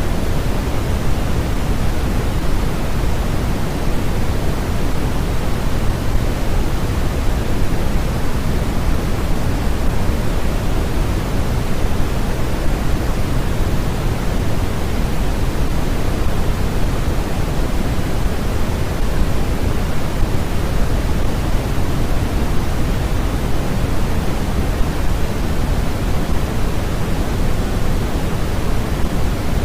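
Steady, unbroken synthetic noise from a sleep-noise track: an even hiss, fuller in the lows and thinning toward the highs.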